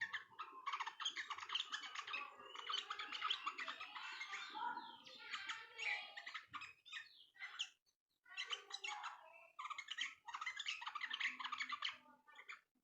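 Many small songbirds chirping and twittering fast in a dense chorus, with a brief pause about two-thirds of the way through.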